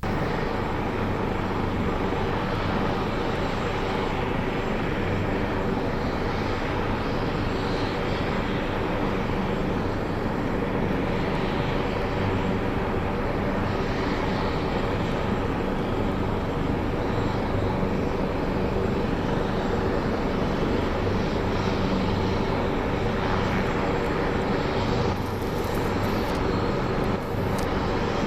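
Twin turbofan engines of Kawasaki T-4 jet trainers running at high power for takeoff, a loud, steady jet noise.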